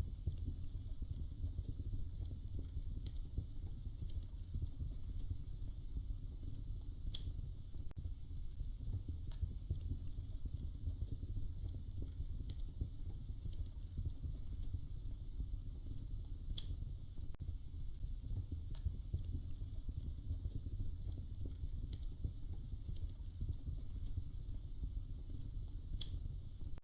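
Wood fire crackling in a fireplace: a steady low rumble of the burning fire with irregular sharp pops and crackles every second or two.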